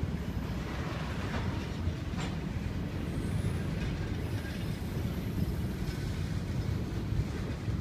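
Florida East Coast intermodal freight train of double-stack well cars rolling slowly past at about 7 mph: a steady low rumble of wheels on rail, with a few faint clicks in the first couple of seconds.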